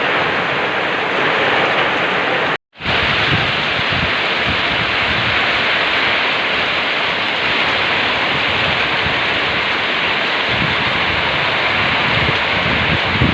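Steady rainfall, a dense even hiss with drops pattering, cutting out completely for a moment about two and a half seconds in.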